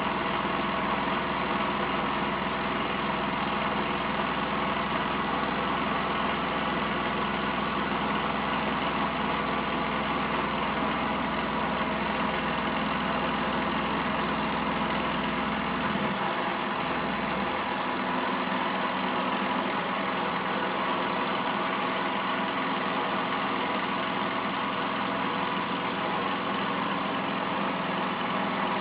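Small model gamma Stirling engine running steadily, a constant mechanical whir with a steady hum; the lowest part of the hum drops away a little over halfway through.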